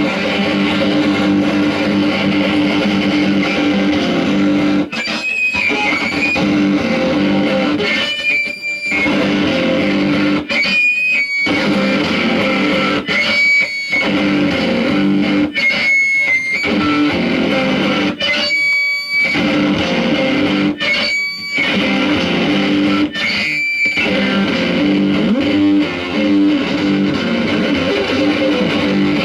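Distorted electric guitar playing a dense, droning instrumental passage. About every two and a half seconds the low part of the sound cuts out for a moment, leaving a brief high ringing tone before the full sound returns.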